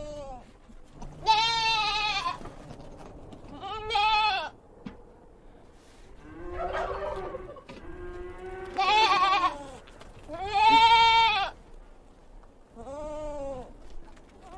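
Bleating livestock: about six drawn-out bleats a second or two apart, each rising and falling in pitch, with one lower call near the middle.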